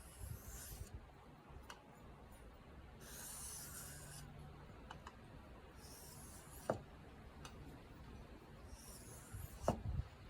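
Steel sheath-knife blade drawn across a wet whetstone in four smooth sharpening strokes, each a soft high scraping hiss, about two and a half seconds apart, with a light tick after the last two strokes.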